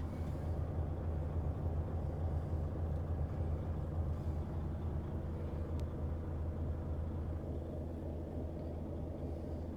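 Volvo FH 500's 13-litre straight-six diesel running steadily with a low, even rumble.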